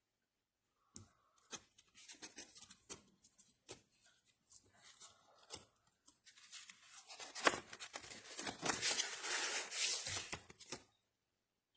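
Handling noises: scattered sharp clicks and taps, then a denser rustling noise from about seven seconds in that stops shortly before the end.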